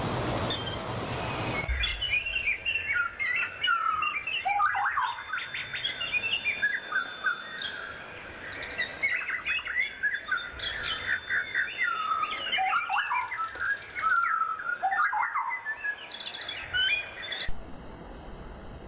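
Songbirds chirping and singing, with many short overlapping calls and trills. It opens with a steady rushing noise that cuts off about a second and a half in, and near the end the birdsong cuts to a fainter steady hiss.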